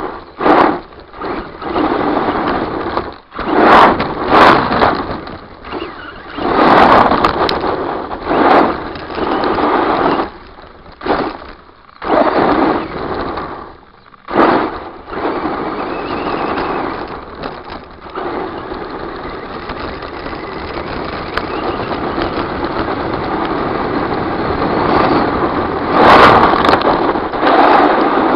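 Redcat Volcano RC truck's brushless electric motor and drivetrain, picked up by a camera riding on the truck: short bursts of throttle with pauses between them, then a long steady run near the end, with a few sharp knocks from the chassis.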